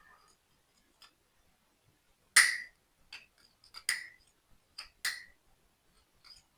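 Sharp clicks and taps of small hard toy model parts being handled and fitted together, about seven in a few seconds, the loudest about two and a half seconds in.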